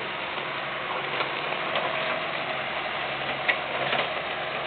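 Steady mechanical noise, probably a machine engine running, with a few sharp metallic clicks and clanks scattered through it.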